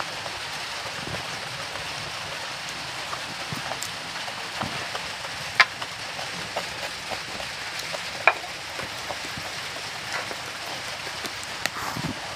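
Close-miked chewing and biting of a raw green chilli, with small clicks and two sharp crunches about five and a half and eight seconds in, over a steady hiss.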